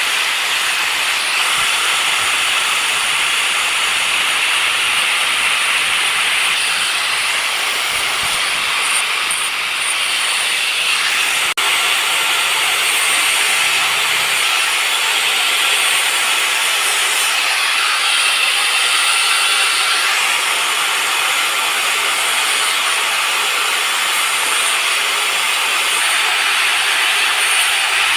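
Steady, loud abrasive hiss of a power tool grinding or sanding the knife, running without a break.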